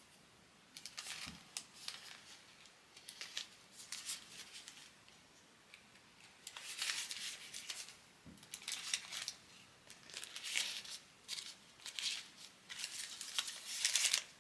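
Irregular bursts of crisp rustling and crinkling, as of material being handled, each lasting a fraction of a second to about a second.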